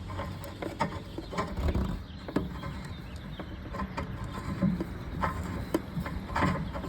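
Socket and breaker bar clicking and knocking irregularly against metal as a new anode rod is screwed into a Suburban RV water heater tank and snugged down.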